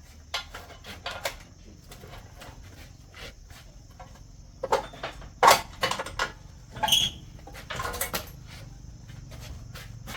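Metal tools and parts being handled during truck repair work: irregular clinks and knocks, busiest in the second half, with one short ringing metallic clink about seven seconds in.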